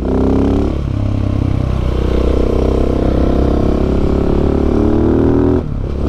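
KTM 690 SMC R's single-cylinder engine running under way with its exhaust dB-killer removed, giving an open, loud exhaust note. The note dips briefly about a second in and again near the end.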